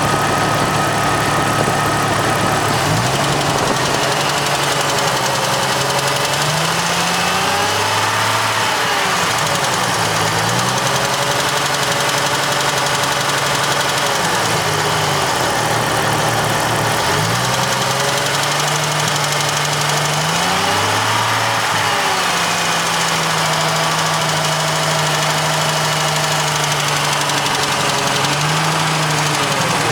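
Jeep Cherokee XJ's 4.0-litre straight-six running, its revs raised and let back down several times, with a tick that comes only around 1500–2000 rpm. The owner has already replaced the manifold gaskets and hears the tick from the right side of the engine, away from the lifters.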